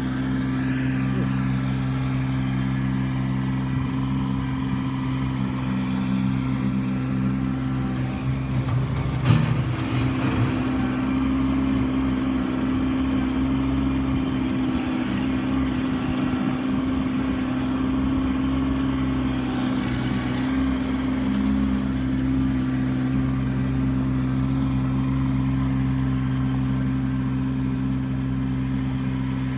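Kubota B2650 compact tractor's three-cylinder diesel engine running steadily, with one sharp clunk about nine seconds in.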